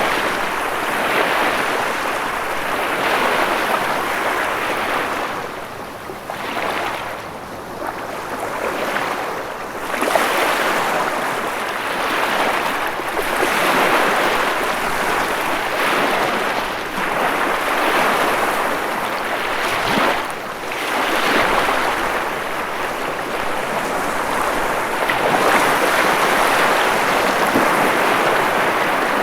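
Ocean waves breaking and washing on shore in a continuous rushing surf that swells and eases every few seconds, dipping briefly a few seconds in.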